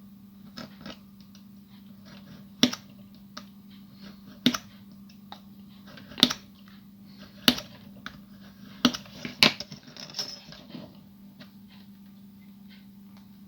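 Sharp, irregular clicks and taps of small plastic pieces being cut and handled on a work surface, about six loud ones in the middle of the stretch, over a steady low hum.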